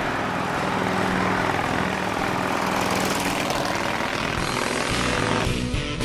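Motorcycle running at road speed under a heavy rush of wind noise, with a steady low engine note. Guitar music comes in near the end.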